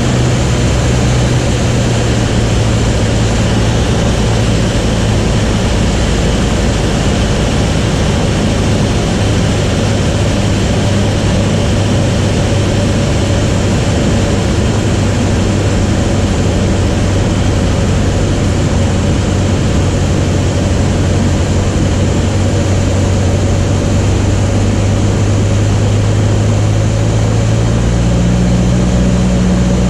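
Light propeller aircraft engine running steadily at cruise, with a loud continuous drone. The engine note shifts slightly about a second in and rises a little near the end.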